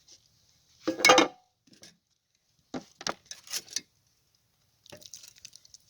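Camp cookware clanking: a loud metal clank about a second in, then several lighter clinks of pot and utensil a couple of seconds later, and faint ticks near the end.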